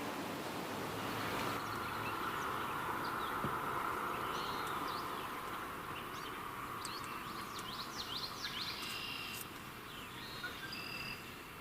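Birds chirping over a steady hiss of background noise; from about halfway in, a quick run of short, sweeping high chirps, then a few brief held whistled notes near the end.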